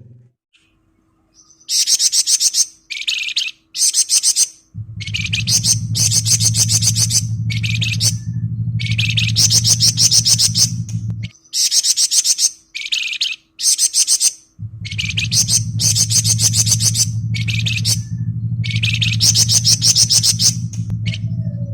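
A flamboyan songbird singing in fast, dense rattling trills ('ngebren'), in phrases of about a second repeated with short gaps, starting about two seconds in. A low steady hum runs underneath for much of the time and drops out for a few seconds in the middle.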